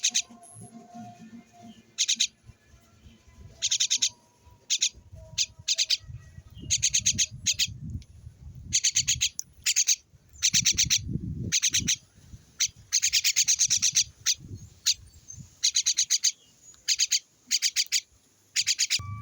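A small bird chirping in repeated short bursts of rapid, high notes, a burst every second or so, with a low rumbling noise underneath at times.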